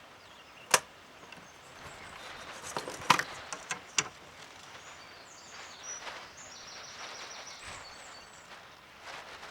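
A few sharp knocks and taps of wood and tools being handled: one just under a second in and a cluster around three to four seconds in.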